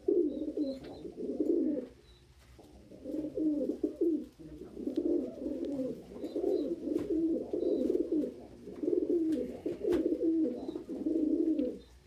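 Domestic pigeons cooing in low, warbling phrases, one after another, with a short pause about two seconds in.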